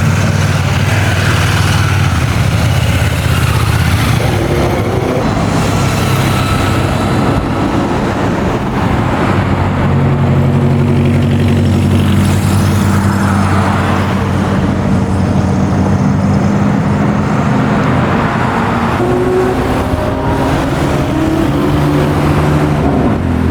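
Car engines running at low revs, a steady low rumble whose pitch shifts a few times as the revs change.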